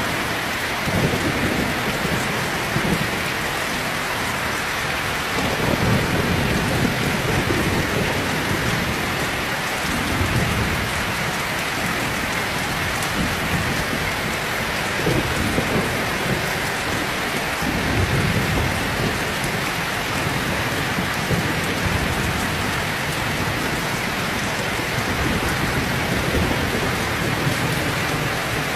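Heavy rain pouring steadily, with low thunder rumbling several times.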